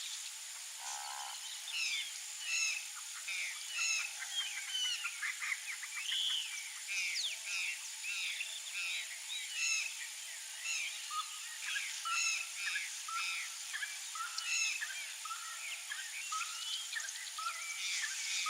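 Several birds calling at once: a dense run of short chirps and downward-sliding whistles, two to three a second, overlapping at different pitches.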